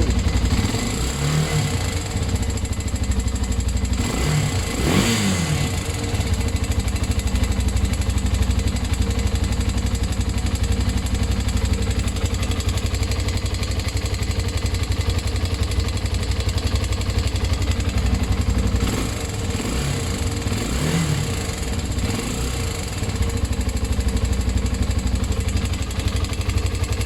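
Engine running steadily, revved up and let back down around five seconds in and again twice around twenty seconds in, run so the owner can judge whether it is knocking or normal.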